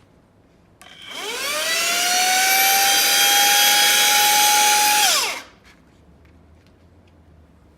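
A click, then a handheld vacuum cleaner's sensorless brushless DC motor spins up with a rising whine. It runs steadily at high speed in its 50,000 RPM power mode for about three seconds, then winds down with a quick falling whine and stops.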